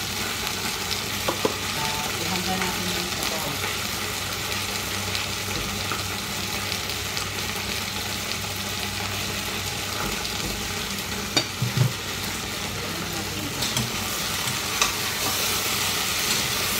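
Beef frying in oil in a stainless steel pot, a steady sizzle. A few sharp clinks of a utensil against the pot come about two-thirds of the way through and again a little later.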